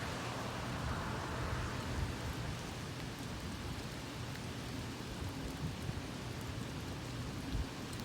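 Steady rain in a thunderstorm, an even hiss with a few brief low thumps.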